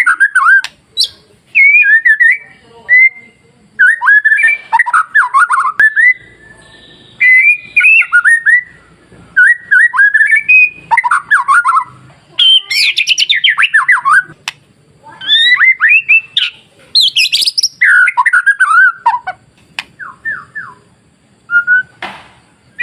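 White-rumped shama (murai batu) singing: loud, fast bursts of varied whistled and rattling phrases with short pauses between them. The song thins out to a few short notes near the end.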